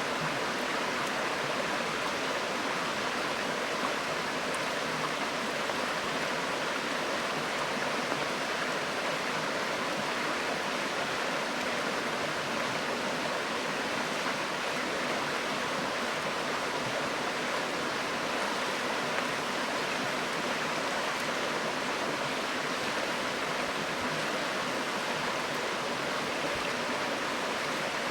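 River water flowing over a riverbed: a steady, unbroken rush.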